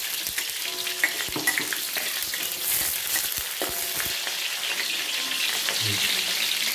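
Sliced red onions frying in hot oil in a metal wok, a steady sizzle, with clicks and scrapes of a metal spatula as they are stirred.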